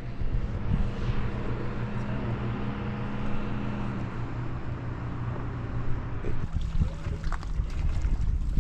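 A boat's motor running steadily, with a few knocks near the end.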